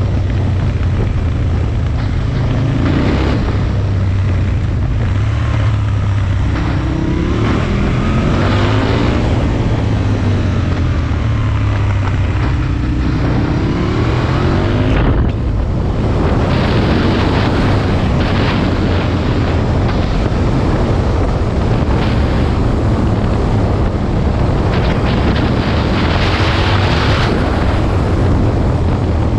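Aprilia Tuono Mille's V-twin engine running under way, its pitch rising several times as the bike accelerates, with heavy wind noise on the microphone.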